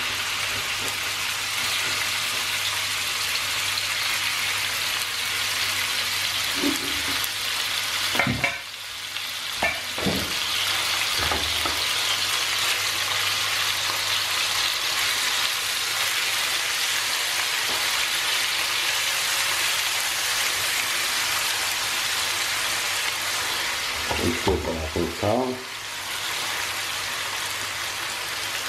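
Thin strips of chicken breast sizzling as they fry in hot oil in a frying pan: a steady hiss throughout. A few short knocks and clatters of a utensil against the pan come about a third of the way in and again near the end.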